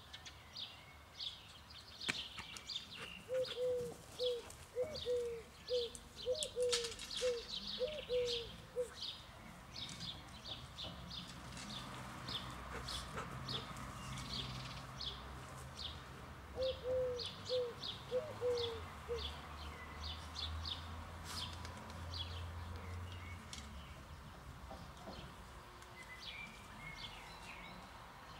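Small songbirds chirping over and over in short, quick notes. Twice a lower call repeats in a rapid run of short notes, about two a second.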